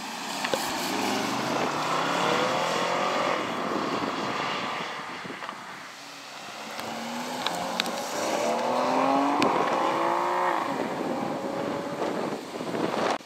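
Two performance cars accelerating hard away one after the other: first a BMW M850i's twin-turbo V8, then an Aston Martin DB11. Each engine note climbs in steps as it pulls through the gears, then fades with distance.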